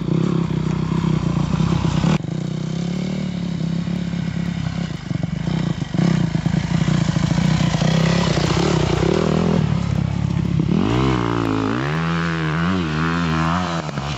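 A KTM 50 mini motocross bike's small two-stroke single-cylinder engine runs steadily. In the last few seconds it is revved up and down several times.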